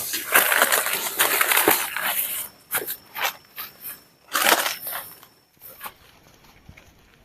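Dry grass and leaves rustling and crunching as they are pushed aside, in a dense stretch and then in scattered bursts, dying away about a second before the end.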